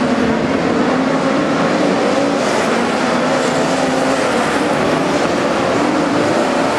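Several midget race cars' engines running hard together as the field laps the track, their pitches rising and falling over a continuous din.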